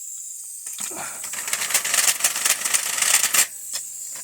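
An 1890 Garlick live steam toy locomotive hissing steam, with about three seconds of loud, rapid metallic clattering and clicking starting about a second in.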